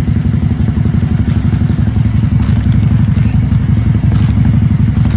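Can-Am Spyder RT idling steadily through an aftermarket GPR muffler, a fast, even low exhaust pulse. A few faint clicks sound in the middle.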